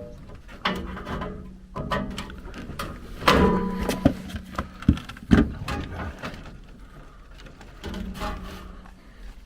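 Handling noise: irregular knocks, clicks and rubbing of hard parts, with a low hum coming and going underneath.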